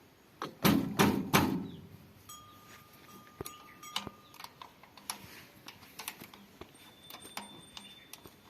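A few sharp metallic clinks and knocks with a short ring in the first second and a half, then scattered quieter clicks, like hand tools being handled on metal.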